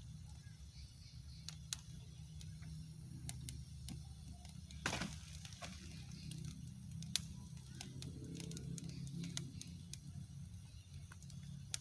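Bonfire of branches crackling, with scattered irregular sharp pops over a steady low rumble.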